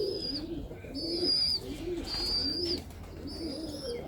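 Domestic pigeons cooing, a run of low, rolling coos one after another, with a high thin whistling note repeating about once a second over them.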